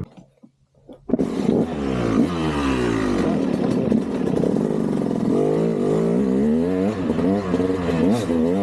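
KTM 200 two-stroke dirt bike engine revving up and down under the throttle, its pitch rising and falling over and over. It starts abruptly about a second in, after a near-silent moment.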